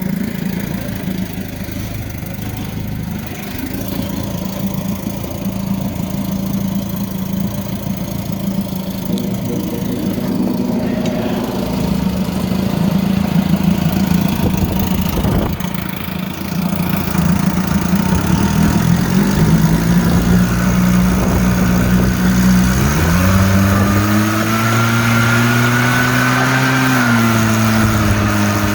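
1956 Evinrude Fastwin 15 hp two-stroke twin outboard running in a test tank, at a steady speed at first. About two-thirds of the way in the throttle is opened and the engine speeds up, then more again a few seconds later, and it eases back down near the end.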